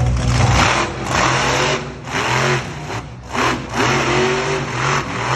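Monster truck engine revving in a series of uneven blips, its pitch rising and falling with each one.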